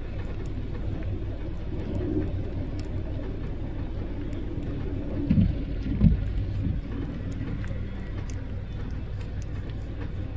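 Car engine idling with a steady low rumble, broken by two brief louder low thuds about five and six seconds in.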